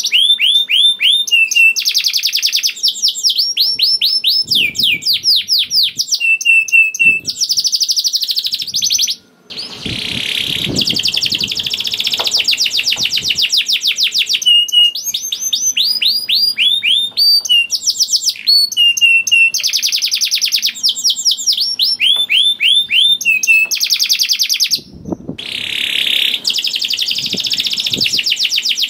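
Male canary singing a long, continuous song of fast rolling trills and rapid repeated high notes, the long 'ngerek' rolls of a bird in full song. The song breaks off briefly about nine seconds in and again near twenty-five seconds, with some low noise underneath at those points.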